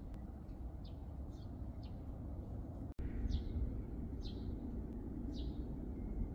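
A songbird repeating short, high call notes that each fall in pitch, about one a second, over a steady low rumble.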